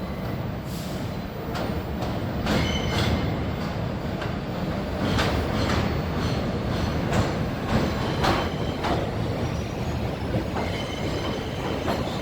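R62 subway train running along the track: a steady heavy rumble, with the wheels clacking over rail joints, often in pairs, and a faint high wheel squeal.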